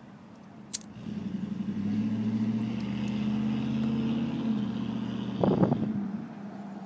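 A motor vehicle's engine running with a steady hum that swells in after a click, gives a short louder rattle near the end, then fades away.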